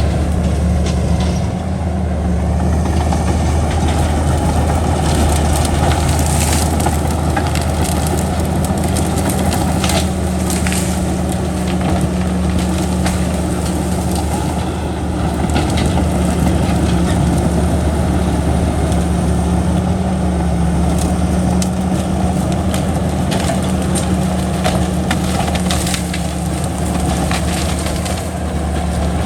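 Heavy diesel engine of an earthmoving machine running steadily, with scattered sharp clanks and knocks throughout.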